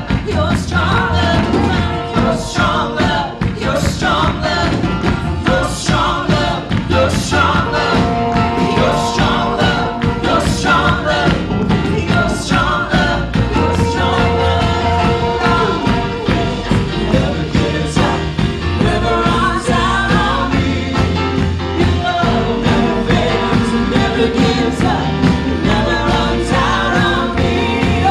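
Live Christian praise and worship music: a band with drums and bass playing an upbeat song while singers sing, loud and with a steady beat.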